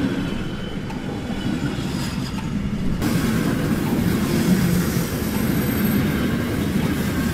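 Passenger coaches of a steam-hauled train rolling past at speed: a steady rumble of wheels on the rails.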